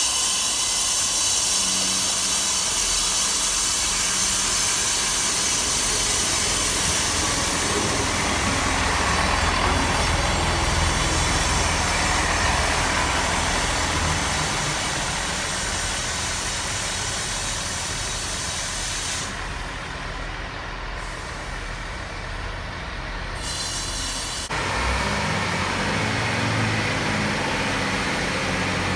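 Diesel multiple-unit trains at a station platform: the rushing, rumbling noise of a train running in along the platform. After a sudden cut near the end, a Class 158 diesel unit's engine idles while it stands at the platform.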